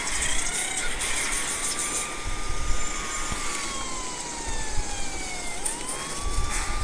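Car chase sound: a car's high whine that rises and holds, slides slowly down for a couple of seconds, then climbs quickly again, over a steady rushing noise.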